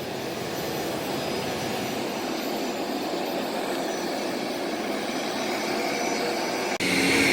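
Private jet's turbine engines running steadily as the jet taxis after landing, an even rushing noise. Near the end it cuts suddenly to a louder jet whine with a high-pitched edge.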